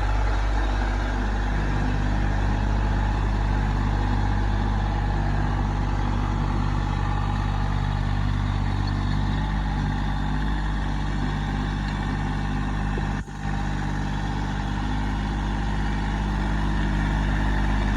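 Massey Ferguson tractor engine running steadily at raised throttle, with a momentary break about thirteen seconds in.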